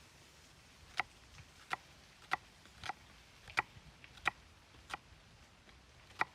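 A series of about eight sharp taps or clicks, fairly evenly spaced at roughly two-thirds of a second apart.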